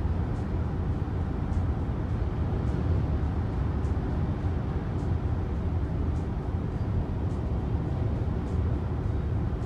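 Steady road and engine noise heard from inside a moving car, a low, even rumble.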